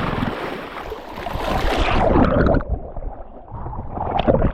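Seawater splashing and gurgling around a swimming horse, in uneven surges that are loudest about two seconds in and again near the end, with wind buffeting the microphone.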